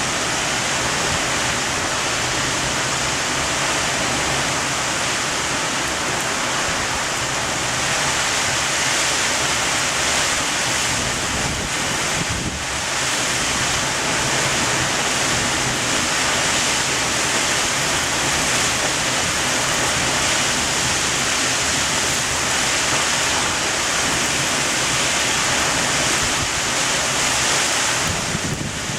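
Heavy thunderstorm rain driven by strong wind: a loud, steady rushing downpour with wind buffeting the microphone.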